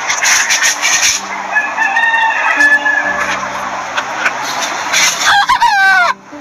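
Chickens clucking, with a held call around the middle and a rooster's crow that wavers and falls in pitch near the end. The sound cuts off sharply just before the end.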